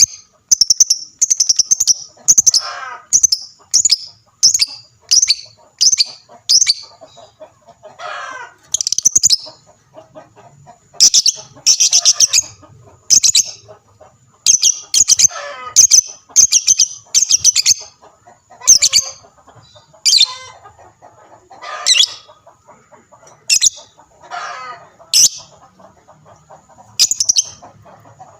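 Lovebirds calling in loud, shrill chattering bursts, about one a second, with now and then a lower call that falls in pitch. This is the lively 'gacor' calling used as a bait call to set other lovebirds calling.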